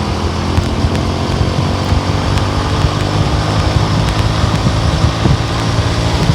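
A vehicle driving on the road: a steady low engine hum under even road and wind noise, with a few faint ticks.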